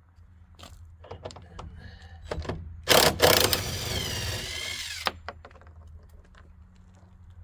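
A handheld power tool running for about two seconds to back out a bolt holding the car's engine subframe, starting with a loud burst and settling into a high whine that drops in pitch before it stops. Small metallic clicks and knocks come before it.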